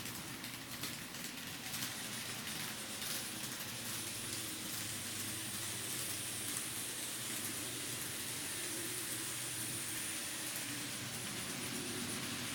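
TOMIX N scale model 207 series train running on layout track: a steady hissing rattle of small wheels on rails, with a high thin whine that comes in about four seconds in and fades shortly before the end.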